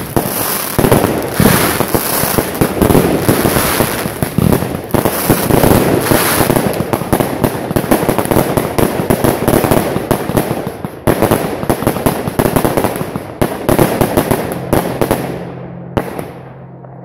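Fireworks going off in quick succession, a dense stream of bangs and crackles close by. It thins out and gets quieter near the end.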